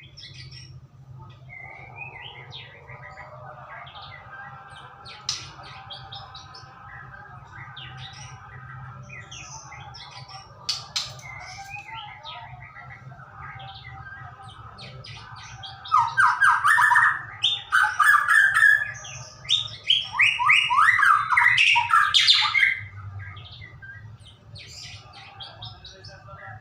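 White-rumped shama (murai batu) singing: scattered soft chirps and whistles, then a loud run of fast repeated notes lasting about six seconds, from roughly two-thirds of the way in.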